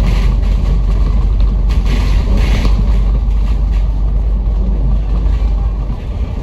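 Bus running on the road, heard from inside: a steady low engine and road rumble with tyre hiss on a rain-wet road, swelling briefly near the start and again about two seconds in. The rumble eases slightly near the end.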